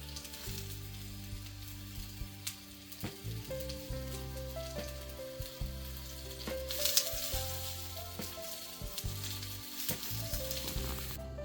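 Potato, carrot and tomato slices frying in a little oil in a pan, sizzling steadily with scattered small pops, over soft background music. The sizzling cuts off suddenly near the end.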